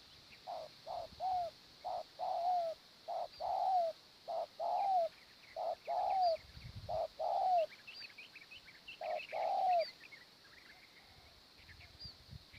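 Spotted dove cooing: repeated phrases of a few short coos, each ending in a longer falling coo, stopping about ten seconds in. Fainter high chirps of small birds sound above it.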